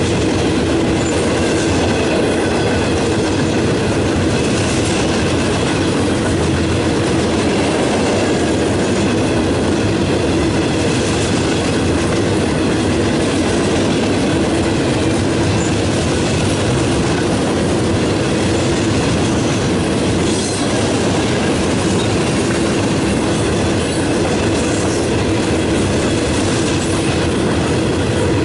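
Freight train of loaded steel-coil cars rolling past at close range: a steady, loud rumble of steel wheels on the rails with clacking over the rail joints.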